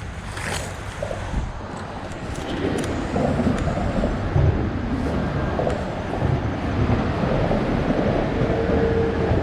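A steady low rumbling noise that grows louder about three seconds in, with a steady hum joining near the end.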